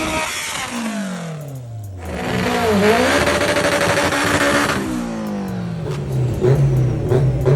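Performance car engines revving hard and falling off, their pitch sliding down, with a quick drop and recovery in pitch like a gear shift. Near the end one engine holds a steady, lower pitch with small crackling pops.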